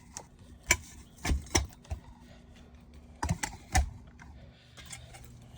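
Irregular sharp clicks and light knocks of small exhaust-fan motor parts being picked up and handled, a few taps at a time, over a faint steady hum.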